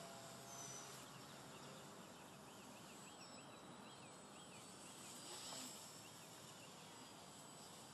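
Near silence: faint outdoor background with a brief run of quick, high rising-and-falling chirps a few seconds in.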